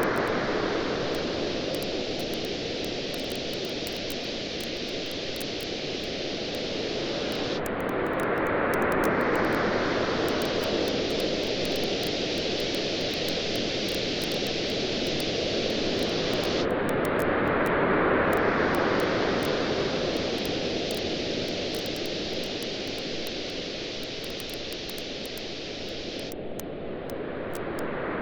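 Ocean waves washing in on a beach in slow swells about every nine seconds, over a steady rushing noise, with the small sharp pops and crackles of a wood campfire scattered throughout.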